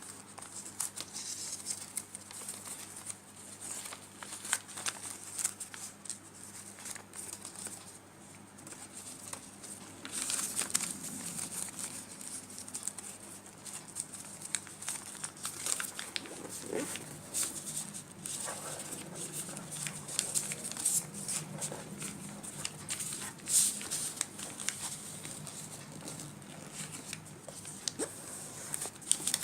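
A sheet of paper being folded and creased by hand while making an origami crane: irregular crinkles, rustles and small snaps of the paper throughout.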